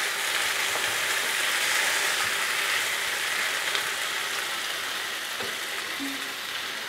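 Masala-coated soya chunks and boiled potatoes sizzling in oil in a non-stick pan, fried down until dry, while a wooden spatula stirs them. The sizzle slowly eases off.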